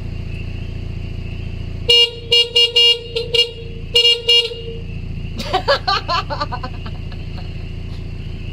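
A vehicle horn honked in a quick series of short beeps, a group of about six and then two more after a brief pause, over a steady engine idle. A voice follows briefly after the honks.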